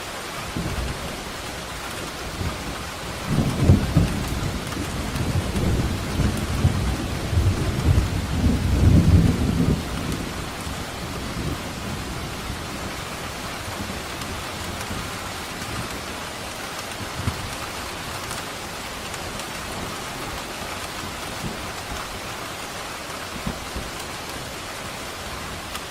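Steady rain falling, with a long roll of thunder rumbling from about three seconds in until about ten seconds, then a few faint low rumbles.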